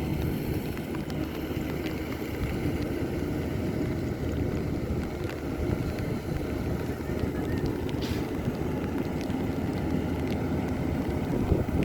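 Rice combine harvester's engine running steadily, a dense low rumble, with a brief higher scrape about eight seconds in.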